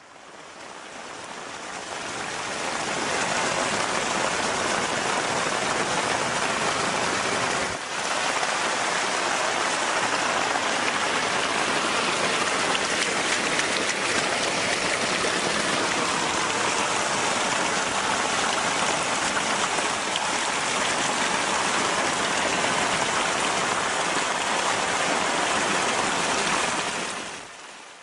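Steady hiss of heavy rain and rushing storm water. It fades in over the first few seconds and fades out near the end.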